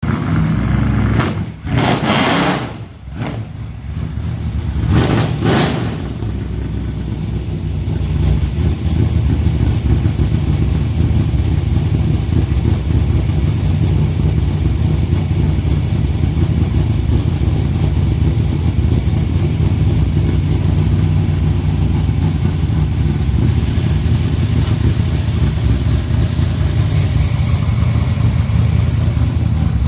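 Truck engine running, with a few short loud bursts in the first six seconds, then settling to a steady low idle.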